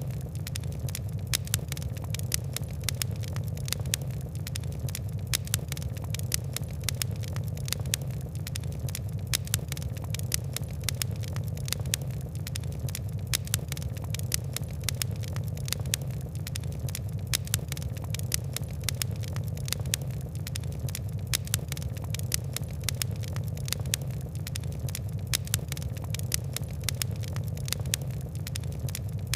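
Fire crackling: dense, irregular small snaps and pops all through, over a steady low rumble.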